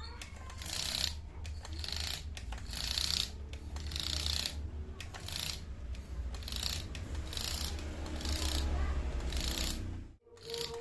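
Homemade RC car fitted with a miniature one-cylinder two-stroke engine model, running with a mechanical whirring and rattling that swells and fades repeatedly over a low rumble. It cuts off suddenly near the end.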